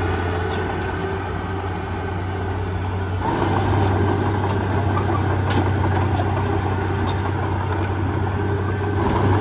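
Heavy diesel engine of earthmoving machinery running steadily with a deep drone. About three seconds in it grows louder and fuller, as under more throttle or load, with scattered light clicks.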